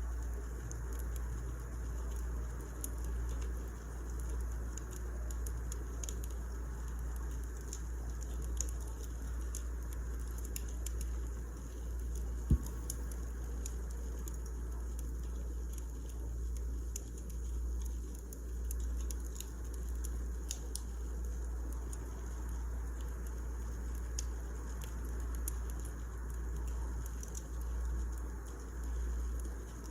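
Wood fire crackling: a steady low rumble of the flames under scattered small pops, with one sharp, louder pop about twelve seconds in.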